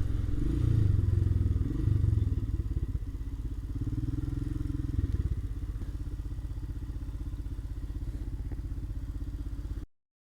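Royal Enfield Himalayan's single-cylinder engine running at low revs with a rhythmic low beat. It is uneven at first, then settles to a steadier, quieter beat, and the sound cuts off abruptly near the end.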